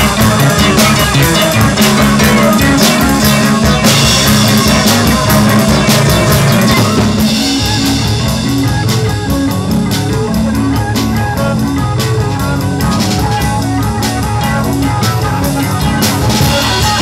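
Live amplified rock band playing, with drum kit and guitar; the music drops somewhat in level about seven seconds in.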